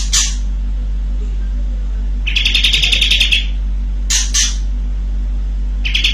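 Kapas tembak, a bulbul, singing in rapid rattling volleys. A short call opens, one fast rolling burst follows about two seconds in, then a brief call, and a second burst starts near the end, over a steady low electrical hum.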